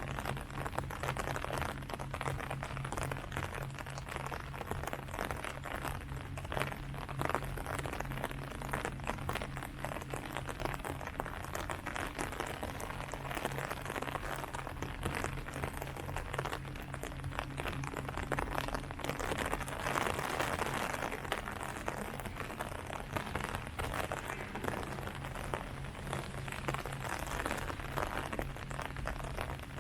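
Steady rain falling on leaves: a dense, even patter of drops with no let-up.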